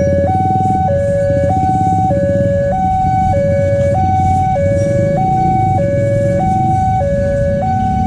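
Railway level-crossing warning alarm sounding its two-tone signal, a higher and a lower tone alternating about every half second, warning that a train is coming. A steady low rumble runs beneath it.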